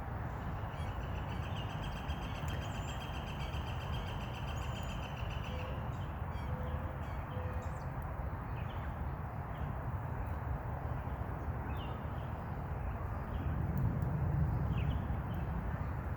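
Small birds calling outdoors over a steady low background rumble. A steady, high-pitched trill lasts about five seconds near the start, and short high chirps follow now and then.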